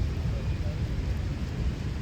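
Steady rain with a heavy, fluctuating low rumble underneath.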